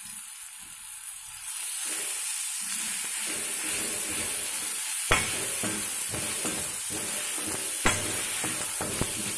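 Onions and ginger-garlic paste sizzling in hot oil in a kadai as a steel spoon stirs and scrapes them around the pan. The sizzle grows louder about a second and a half in, and the spoon strikes the pan twice with a sharp clink.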